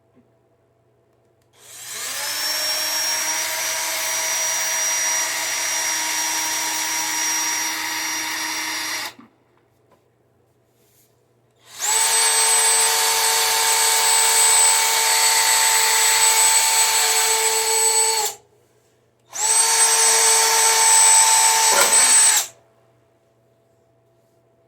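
Electric power drill running in three bursts, of about seven, six and three seconds, while drilling holes in the mower's cover. Each burst spins up with a short rising whine, then runs at a steady pitch and stops sharply.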